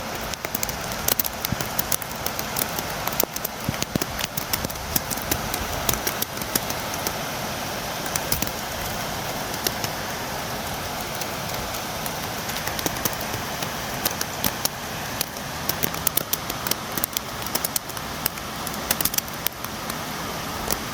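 Rain falling steadily: an even hiss with many sharp, irregular taps of drops striking a nearby surface.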